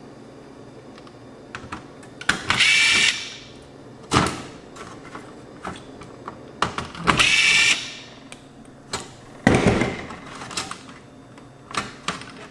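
Cordless drill fitted with a small screwdriver bit, driving out screws in two short bursts about four seconds apart, its motor whine climbing as it spins up. Between the bursts come sharp clicks and knocks of parts being handled, with one louder knock near the end.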